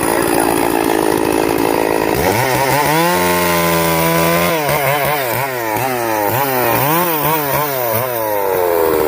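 Chainsaw engine running loud; about two seconds in its pitch climbs and holds, then it is revved up and down in quick blips, about two a second, before settling near the end.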